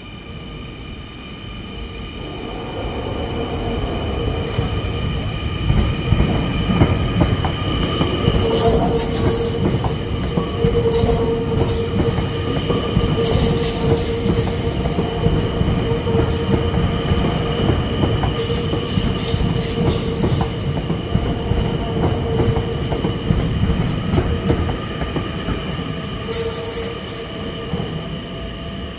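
NS Sprinter electric passenger train running into the platform, growing louder over the first few seconds and then holding steady. Its wheels and running gear give a steady whine, with short high-pitched squeals several times as it passes.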